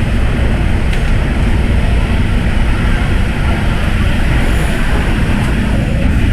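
MTR M-Train electric multiple unit running at speed: a loud, steady rumble of wheels on rail and traction equipment.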